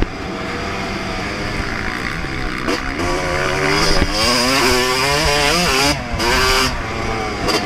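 Yamaha YZ250 two-stroke motocross bike's single-cylinder engine at full throttle, revving hard and climbing in pitch through the gears. The throttle shuts off briefly about three, six and seven and a half seconds in, and the engine picks up again each time.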